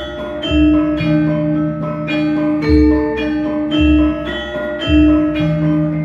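Javanese gamelan ensemble playing: metallophones strike ringing notes in a steady beat, over deep low strokes that come about once a second.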